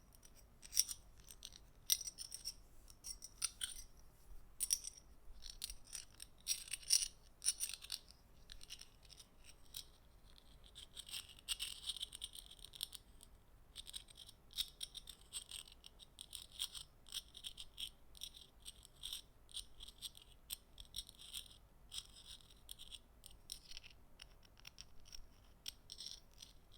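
Metal bottle caps handled close to the microphone: a steady run of light clicks and clinks, growing into denser rattling about ten seconds in.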